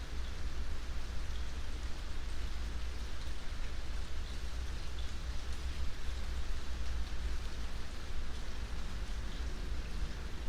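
Steady rainfall: an even hiss of rain with a constant low rumble underneath and scattered light drop ticks.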